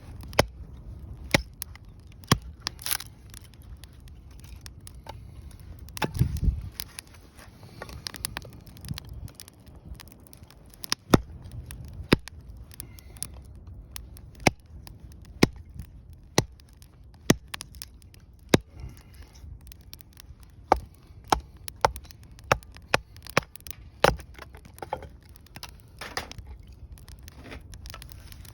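Wood fire burning in a BUNDOK Lotus fire pit, crackling with sharp, irregular pops of burning wood over a faint low rumble. A brief, louder low rumble comes about six seconds in.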